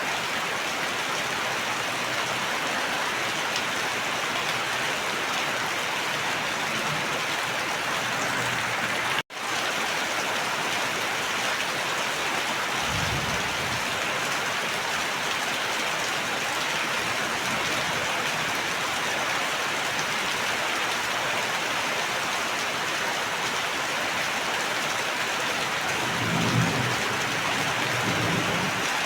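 Steady, heavy rain hissing on surfaces, with two low rumbles of distant thunder: one about 13 seconds in and one near the end. About 9 seconds in, the sound cuts out for an instant.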